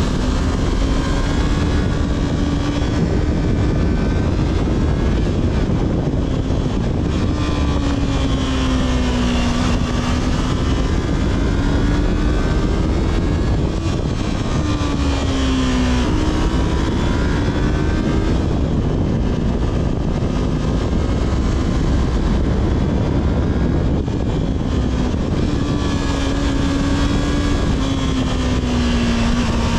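Yamaha R3's parallel-twin engine through its stock exhaust, running at steady riding revs that rise and fall gently. About sixteen seconds in the pitch sags, then jumps back up. Heavy wind rush runs underneath.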